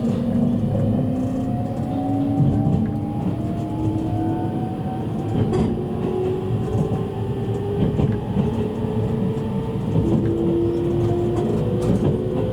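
Inside the motor car of a JR East E653-series electric train accelerating: the VVVF inverter and traction motor whine rises steadily in pitch, with a step up in tone about ten seconds in, over the rumble of the wheels and occasional clicks from the rails.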